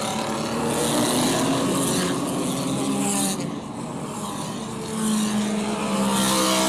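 Racing car engines running hard on track, their pitch rising and falling as the cars pass, with hiss from tyres and air.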